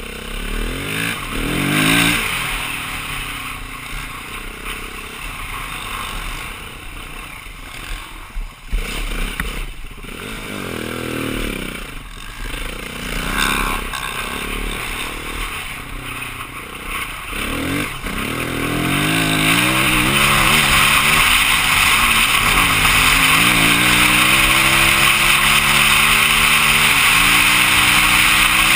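BMW G450X single-cylinder dirt bike engine revving up and down on the trail. From about 19 seconds in, a louder steady rush comes in as the engine pulls harder, its pitch climbing in steps through the gears.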